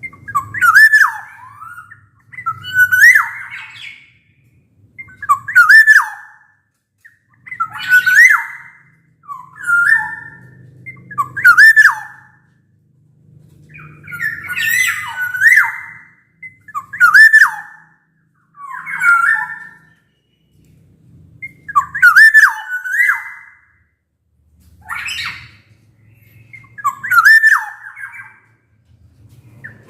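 Black-naped oriole (kepodang emas) singing: loud, fluty whistled phrases with quick up-and-down swoops in pitch, repeated about once every two seconds.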